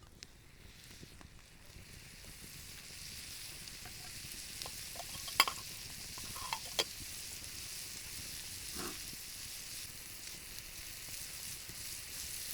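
Potatoes frying in butter in a pan over a campfire, a steady sizzle that swells over the first few seconds as they crisp. A few sharp clicks of a utensil against the pan, the loudest about five and a half seconds in.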